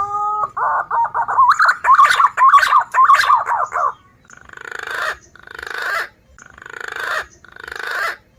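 Green pigeon (punai) calls used as a lure: a rising whistle, then about three seconds of rapid warbling whistles, then four harsh raspy notes about a second apart.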